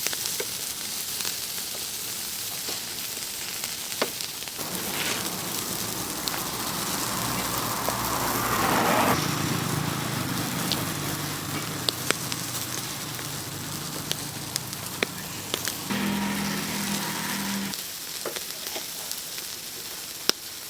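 Chicken sizzling over a charcoal grill, a steady hiss with scattered sharp crackles and pops. The sizzle swells about halfway through, and a short low hum comes in near the end.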